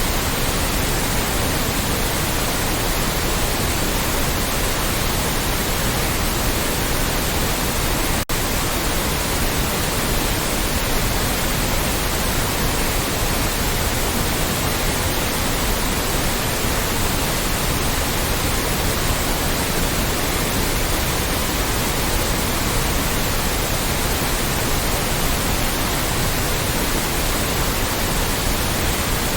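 Steady, loud synthetic white noise, an even hiss spread across all pitches, with one momentary dropout about eight seconds in.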